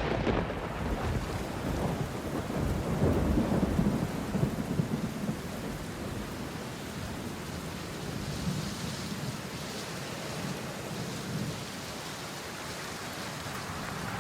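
Thunderstorm: a deep rumble of thunder over the first few seconds, then steady rain.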